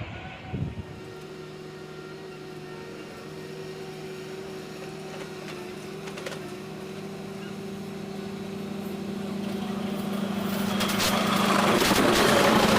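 Train approaching: a steady engine drone grows louder, and the rumble and rattle of wheels on rail build up over the last few seconds.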